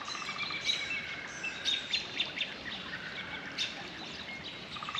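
Several birds chirping and calling, with short sweeping notes throughout and a brief rapid pulsed trill at the start and again near the end.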